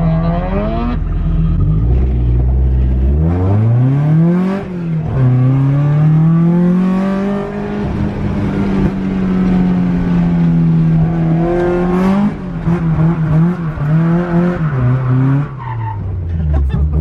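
Drift car's engine revving hard on track, its pitch climbing, holding and dropping several times as the throttle and gears change.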